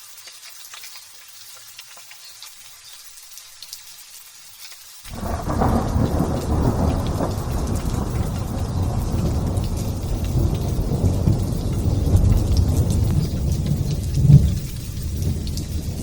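Light drizzle pattering softly, then about five seconds in thunder breaks suddenly into a long, loud, low rumble that rolls on, with a sharper peak near the end.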